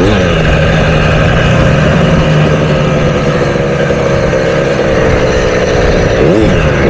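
Motocross bike engine held at steady revs for several seconds, with quick up-and-down revs near the start and again near the end as the throttle is worked.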